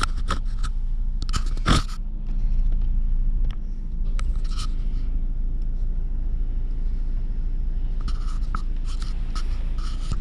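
Car running, heard from inside the cabin: a steady low engine and road hum, with scattered clicks and scrapes and one sharp knock just under two seconds in.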